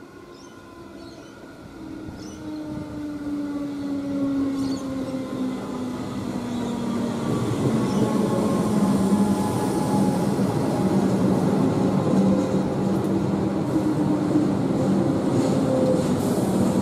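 Comeng electric suburban train running into the platform. Its whine falls in pitch as it slows, and the sound grows louder over the first several seconds as it approaches, then stays steady as the carriages pass.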